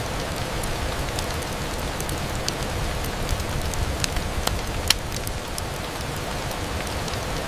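Steady rain on a window: an even hiss with scattered sharp ticks, the sharpest about five seconds in.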